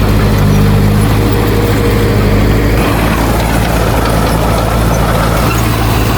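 Heavy diesel engine of earthmoving machinery running steadily, with a slight change in its note about halfway through.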